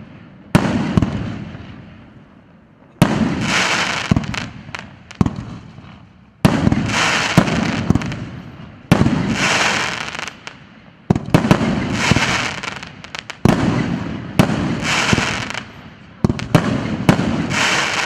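Large firework battery (cake) firing salvo after salvo: a sharp bang about every two to three seconds, each followed by a spray of crackling that dies away over a second or two.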